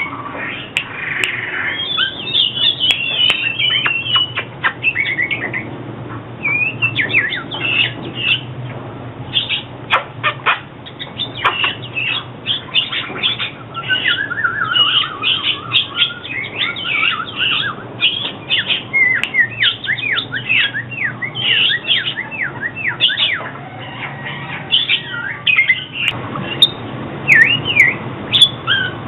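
Oriental magpie-robin singing: a continuous run of varied whistled phrases, with quick rising and falling notes and fast trills, one falling trilled series about halfway through.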